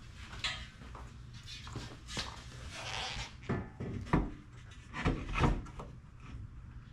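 A lower door armor panel being handled and set against a Jeep Cherokee's door: scattered light knocks and rubbing scrapes, with a few sharper clicks about two, four and five seconds in.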